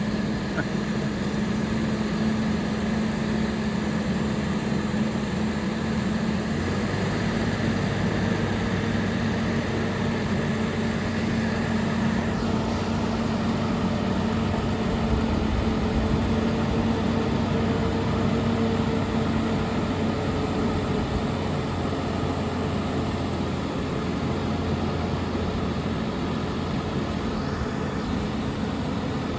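Mobile crane's engine running steadily under load, its hum shifting in pitch a couple of times.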